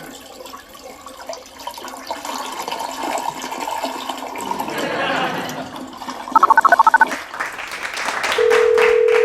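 Toilet water running and gurgling. About six seconds in comes a quick run of phone keypad beeps as a number is dialled, then near the end a loud steady telephone tone.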